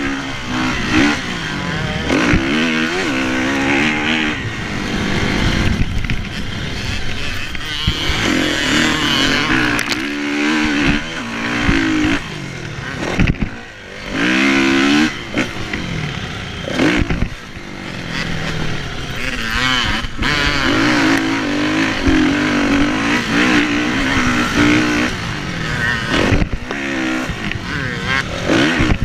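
Kawasaki KX450F motocross bike's single-cylinder four-stroke engine at race pace, its note rising and falling again and again as the throttle is worked through the gears, with wind rushing on the microphone. About halfway through, the engine note falls away briefly before picking up again.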